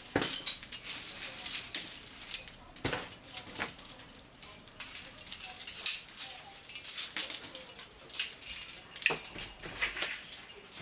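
Metal climbing hardware (cams and carabiners) clinking and jangling as it is handled and clipped onto a harness gear loop, in many quick irregular clicks with a bright metallic ring.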